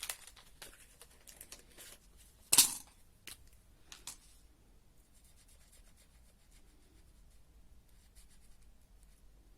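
A felt-tip marker and paper being handled: small clicks and scratches, one sharp, loud paper-like stroke about two and a half seconds in, then faint scratching of the marker on paper.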